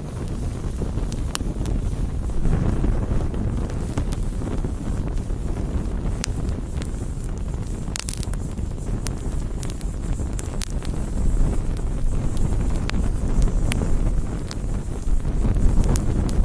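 Campfire burning: a steady low rumble with scattered sharp crackles and pops, about a dozen, the loudest pop about halfway through.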